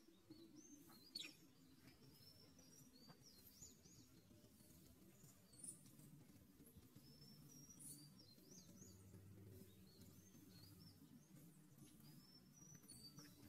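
Faint outdoor ambience: small birds chirping, with many short high-pitched chirps scattered throughout, over a low steady hum. A single sharp click about a second in.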